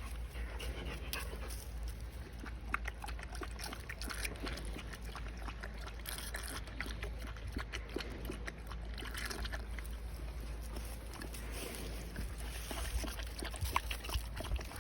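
Belgian Malinois dogs moving about, with small scattered clicks and rustles and possibly soft water sloshing.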